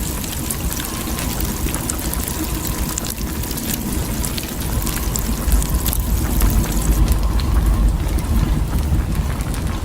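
Blizzard wind buffeting the microphone: a deep rumble that swells about five seconds in, with fine crackling ticks over it.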